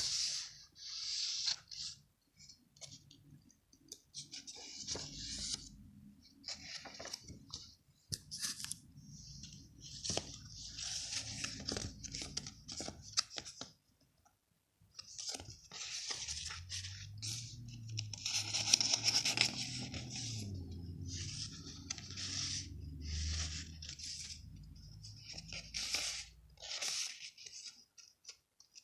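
Paper being torn and handled by hand in a run of short, irregular rips, with a brief pause about halfway through.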